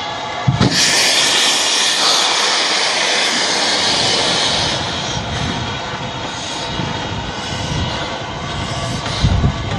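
Steam locomotive letting off steam: a loud hiss that starts suddenly about half a second in, is strongest for about four seconds, then eases off but keeps going over a low rumble.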